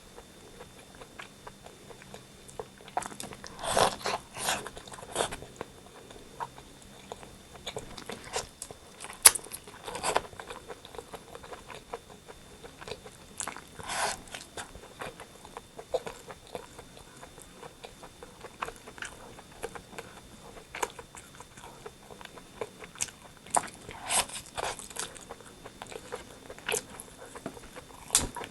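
Close-up eating of rotisserie chicken: bites and chewing with crunches, coming in irregular bursts every few seconds.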